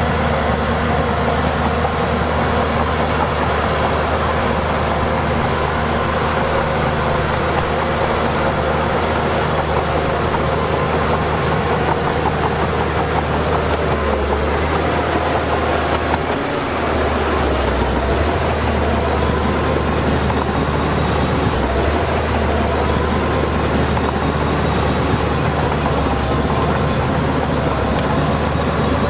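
Heavy diesel earthmoving machinery running steadily under work: a constant low engine drone with wavering whines above it, easing briefly about halfway through.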